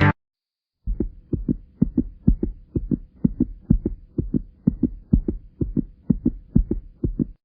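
Regular low thumps like a heartbeat, about three a second, over a faint steady hum, starting about a second in and cutting off abruptly near the end.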